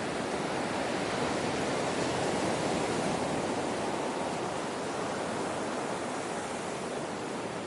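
Ocean surf washing steadily, a continuous rushing that swells gently and eases again over several seconds.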